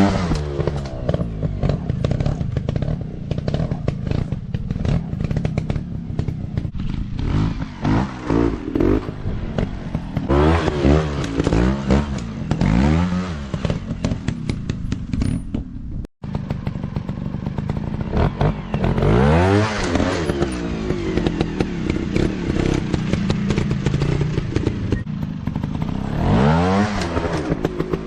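Off-road dirt bike engines revving up and falling back again and again under throttle, with clattering and thumps from the bikes over rough ground. The sound drops out for an instant partway through.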